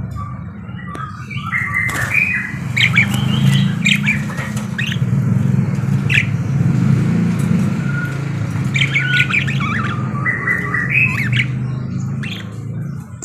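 Budgerigars chattering: a busy run of squawks, short whistled calls and clicks, dense at first, thinning out in the middle, then busy again. A steady low hum runs underneath.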